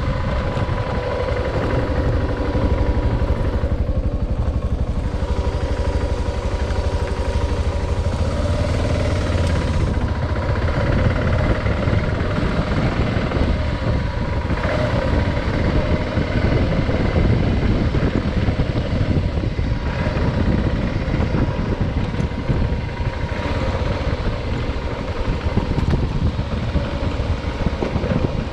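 Adventure motorcycle being ridden, its engine running steadily under heavy wind rush on the microphone.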